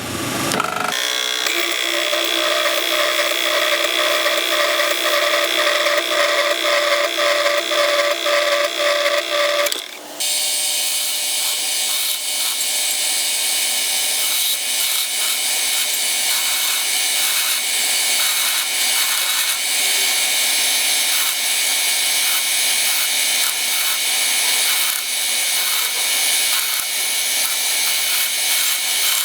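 A saw cutting a piece out of the workpiece, running continuously. There is a brief break about ten seconds in, after which the cut sounds harsher and hissier.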